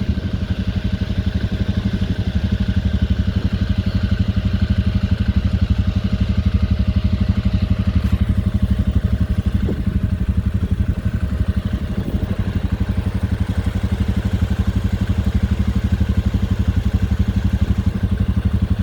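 ATV engine idling steadily with an even firing pulse, with a few faint clicks partway through.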